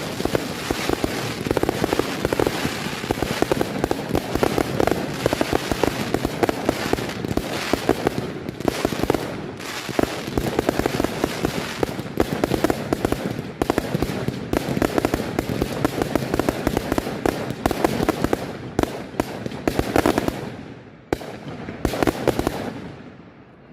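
Fireworks display: a dense, continuous rattle of crackling bursts and bangs that thins out and dies away near the end.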